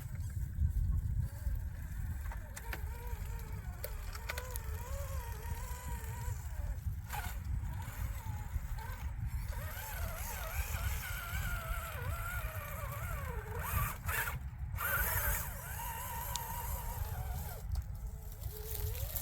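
RC scale crawler's small electric motor whining, its pitch rising and falling as the throttle changes, over a steady low rumble.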